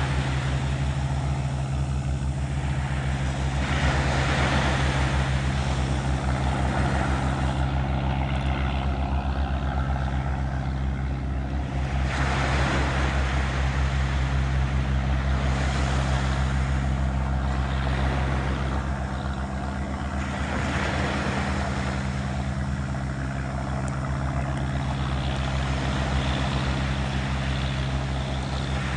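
An engine running steadily at an even pitch, with waves washing in and swelling every few seconds.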